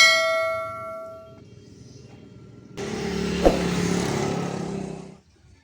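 A piece of steel struck once, ringing with several clear tones that fade out over about a second and a half. About three seconds in, a steady hissing machine noise with a low hum starts and runs for about two and a half seconds before cutting off.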